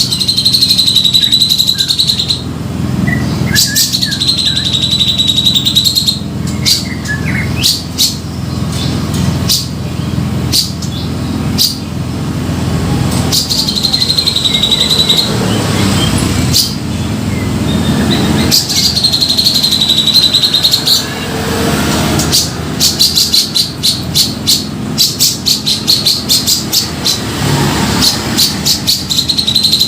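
Grey-cheeked bulbul (cucak jenggot) calling noisily, a lure-call recording: repeated buzzy chattering phrases of about two seconds each, alternating with rapid rattling notes, over a steady low hum.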